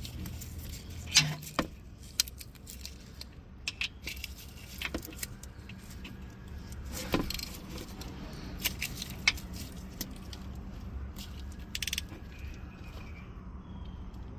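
Metal clicks and clinks of a ratchet and socket tightening the oil drain plug back into the oil pan, coming at irregular intervals over a faint steady low hum.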